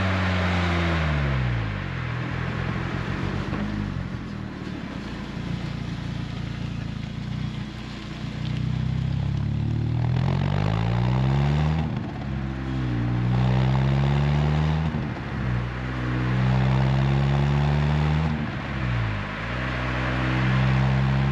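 Renault Twingo RS Gordini's four-cylinder engine through an Inoxcar 80 mm stainless steel aftermarket exhaust, out on the road. The revs fall over the first couple of seconds and hold low for a while. From about halfway the car accelerates hard, with the engine note climbing and dropping sharply at several gear changes.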